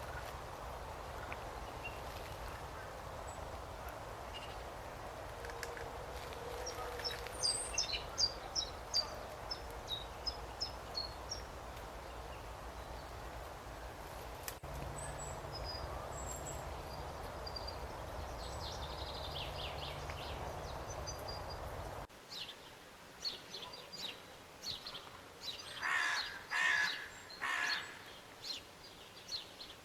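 Outdoor nature ambience with a steady background hiss and scattered high bird chirps. About two-thirds of the way through it cuts to a quieter background, where louder bird calls come in several clusters near the end.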